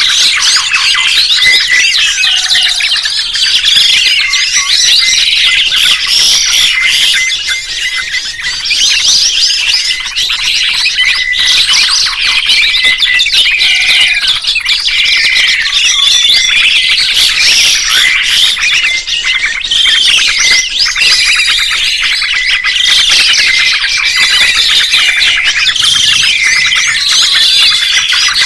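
Dense, continuous songbird chirping and warbling: several birds calling over one another in rapid, gliding, looping phrases, with a few harsher squawk-like notes.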